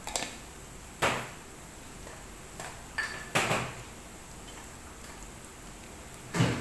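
Metal spoon knocking and clinking against cookware while spices are measured in: a handful of sharp knocks a second or more apart, one ringing briefly.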